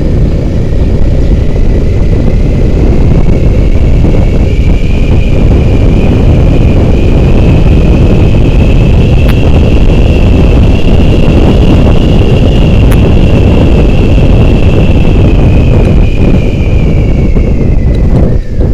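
Wind buffeting the microphone on a moving motorcycle, a heavy steady rush, with a thin high whine that climbs slowly and falls away near the end.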